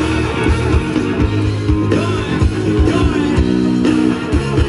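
A live rock band playing an instrumental passage with no singing: guitar over bass and steady drum beats.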